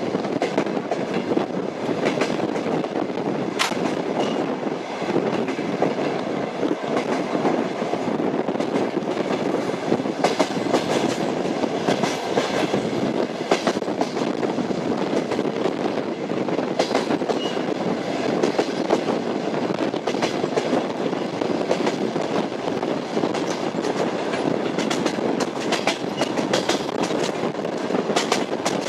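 Train wheels rolling over the rails between stations: a steady rumble with repeated sharp clicks and clatters as the wheels strike the rail joints.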